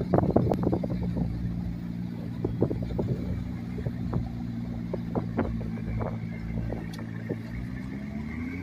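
McLaren supercar's twin-turbo V8 running at a low, steady idle as the car creeps away, with scattered sharp clicks over the engine note. Near the end the pitch starts to rise as it begins to accelerate.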